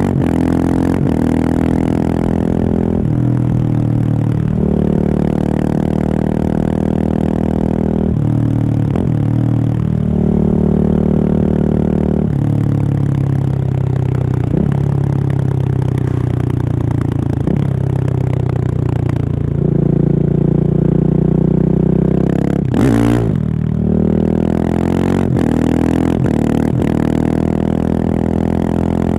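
Husqvarna 701's single-cylinder engine through a Remus exhaust with the dB killer removed, ridden under way. The pitch climbs and steps down again and again with short breaks between. Near the end of the third quarter there is a brief sharp burst of noise.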